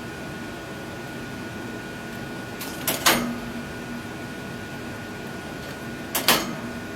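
Scarlet macaw giving two short, harsh squawks about three seconds apart, demanding more nuts for her bowl, over a steady background hum.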